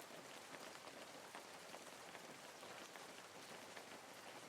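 Soft rain falling: a faint, steady patter of many small raindrops.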